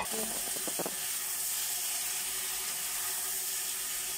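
Chicken pieces and potatoes sizzling in a wok as they are stirred with a wooden spatula, a steady hiss throughout. A few short knocks of the spatula against the pan come just under a second in.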